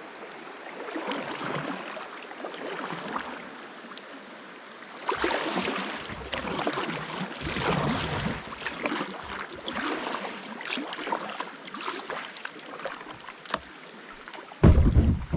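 Water splashing and sloshing around a kayak at a small creek rapid, in irregular splashes that grow louder about a third of the way in. A loud low thump near the end.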